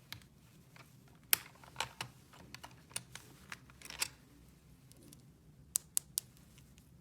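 Small plastic toy pieces being handled, making irregular light clicks and taps, then three sharp clicks in quick succession near the end.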